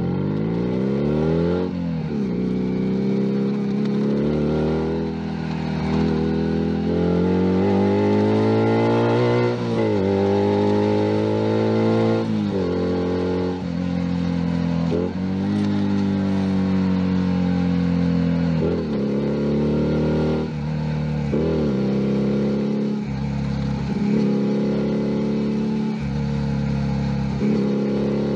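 Junak M11 Cafe 125 cc motorcycle engine heard from on the bike, accelerating up through the gears: the pitch climbs and drops back at each upshift, about 2, 10 and 12 seconds in. Then it cruises at a steady pitch, with a few brief throttle lifts.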